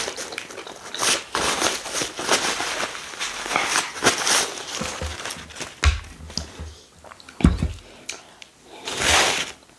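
People eating rice and stew close to the microphone: chewing and mouth noises mixed with quick clicks and scrapes of utensils on plates, and a few dull thumps.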